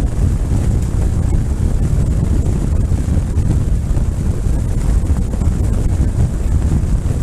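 Wind buffeting a microphone on a moving motorcycle: a steady, loud low rumble of rushing air.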